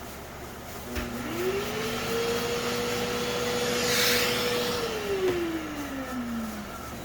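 An electric power-tool motor switched on with a click about a second in. It spins up to a steady whine, with a brief rush of air near the middle, and coasts down in pitch after it is switched off.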